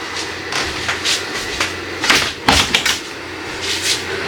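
Handling noises: a run of short knocks, scrapes and rustles as things are moved and set down, with a couple of louder thumps between two and three seconds in.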